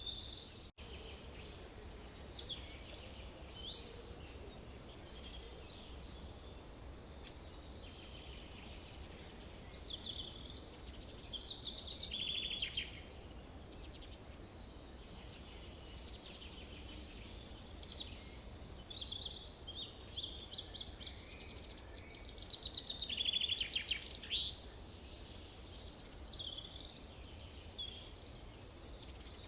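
Forest birdsong: several birds chirping and calling throughout, with two louder trilled song phrases, one near the middle and one in the last third, over a low steady background rumble.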